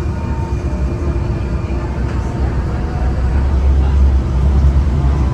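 Tram running, a heavy low rumble with faint steady tones above it, growing louder about three and a half seconds in.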